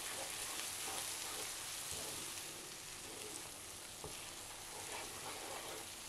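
Onion-cashew paste frying in a tomato-spice masala in a nonstick pan: a quiet, steady sizzle, with a wooden spatula stirring and scraping through it.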